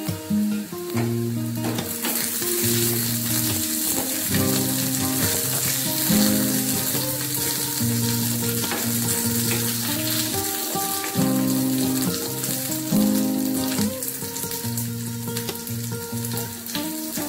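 Tempering for a curry: dried red chillies, shallots and curry leaves sizzling in hot oil in a small metal pan while a spatula stirs them. The sizzle gets louder about two seconds in, with background music underneath.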